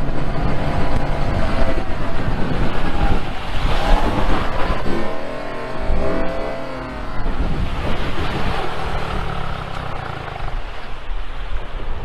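An engine running amid steady rushing noise, with a brief break about six seconds in.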